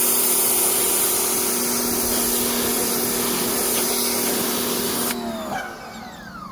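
Pressure washer spraying water onto car carpet: a steady hiss with a constant motor-pump hum. About five seconds in the spray stops and the motor winds down with a falling whine.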